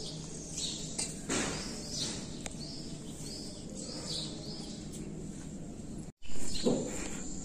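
Small birds chirping, several short downward-sliding chirps over a few seconds, above a steady background hum. Two brief rushes of noise, one about a second in and one near the end, are the loudest sounds.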